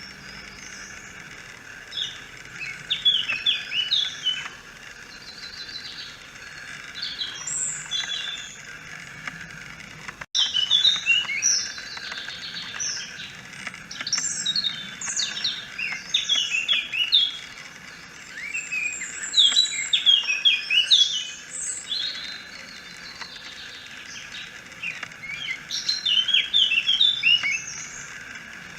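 Wild songbirds singing, several at once, in bursts of quick, high chirping phrases over a steady background of distant birdsong. There is a short break in the sound about ten seconds in.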